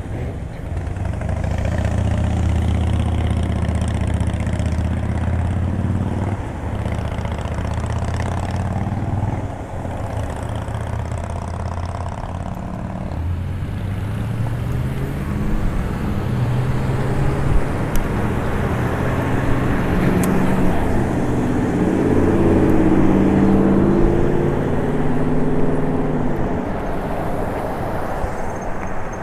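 Road traffic: motor-vehicle engines running and passing close by, several rising in pitch as they speed up through the second half, over a steady rush of wind and road noise.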